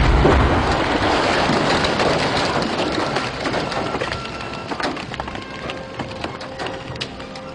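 Aftermath of a special-effects house explosion: the blast's low tail dies away at the start, then debris, splintered breakaway wood and glass, patters and crackles down, many small clicks thinning out and fading.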